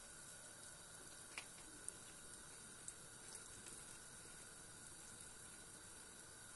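Egg, tomato and cheese mixture cooking in a frying pan: a faint, steady sizzle, with a few light clicks in the first three seconds.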